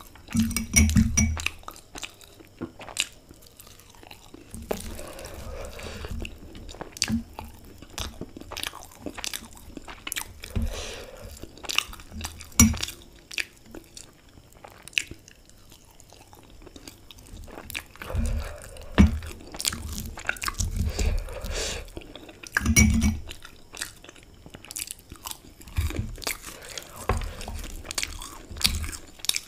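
Close-miked chewing and crunching of a fried samosa's crisp pastry, with irregular crackles and wet chews, and fingers breaking off pieces.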